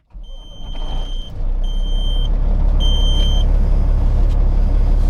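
Peterbilt 379 diesel truck engine running with a steady low rumble, heard from inside the cab, building up over the first couple of seconds. Three short electronic beeps sound one after another in the first few seconds.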